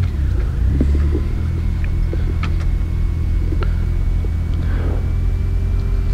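Inside the cabin of a 1997 Mercedes-Benz C180 rally car, its four-cylinder engine running steadily at low speed through a custom 2.5-inch exhaust, a low even rumble, with a few light clicks and rattles.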